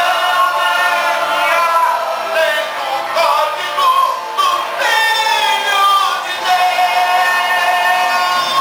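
Gospel song: a male singer's voice holding and sliding between long sung notes over backing music.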